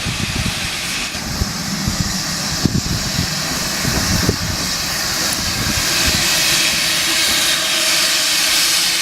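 Steam locomotive hissing steam in a loud, steady rush that grows slowly louder, with gusty low rumbles underneath.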